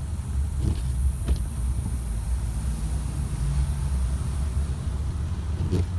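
Car engine running, a steady low rumble, with a few faint clicks.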